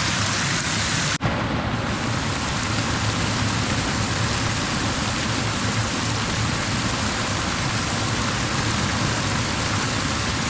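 Creek water rushing steadily in a strong current. The sound breaks off for an instant about a second in.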